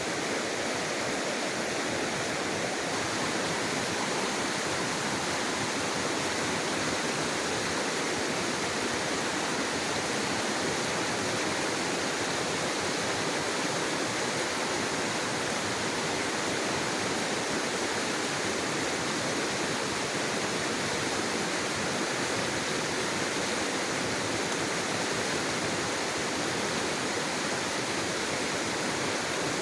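Steady rush of flowing water in a small stream, even and unchanging throughout.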